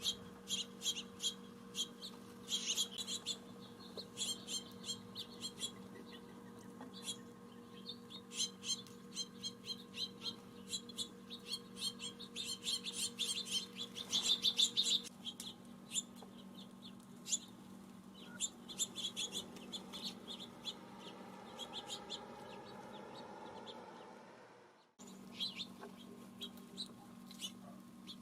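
Small songbirds chirping: many short, sharp chirps in quick runs, over a steady low hum. The chirping breaks off briefly near the end.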